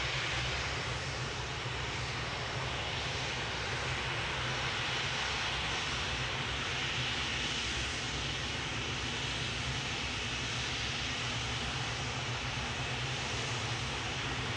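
Jet airliner engines running steadily: a continuous rumble with a broad hiss over it.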